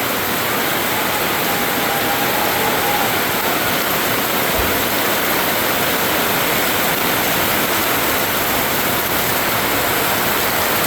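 Heavy tropical rain pouring down, a loud, steady rushing hiss. There is one brief soft thump about halfway through.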